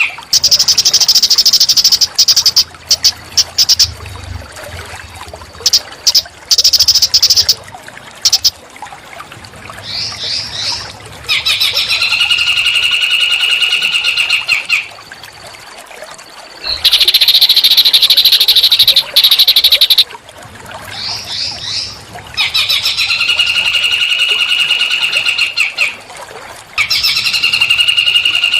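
A small songbird's song, loud and close, repeating its phrases in a loop: a high buzzy trill of about three seconds alternates with a few quick rising chirps that lead into a held, even, reedy note of about three seconds.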